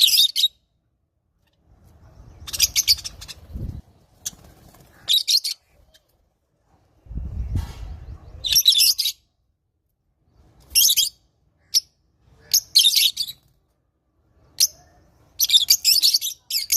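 Lovebirds chattering in short bursts of shrill chirps, about seven bursts coming every second or two with silent gaps between.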